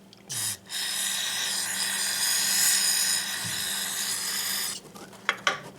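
Aerosol spray cleaner hissing into an oil burner's strainer housing to flush out debris: a short spurt, then one long, steady spray of about four seconds. A few light clicks follow near the end.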